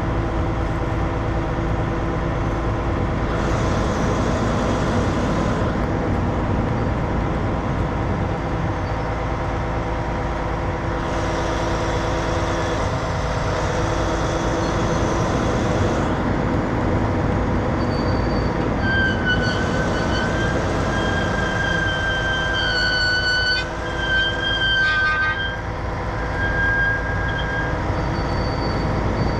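Heavy diesel truck engine running steadily during a wrecker recovery pull, with several stretches of hissing and, in the second half, a high, wavering whine.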